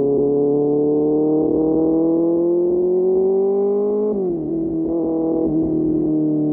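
QJ Motor SRK600's inline-four running through an SC-Project aftermarket exhaust, its note climbing steadily under acceleration for about four seconds, then dropping sharply as it shifts up a gear and holding steadier.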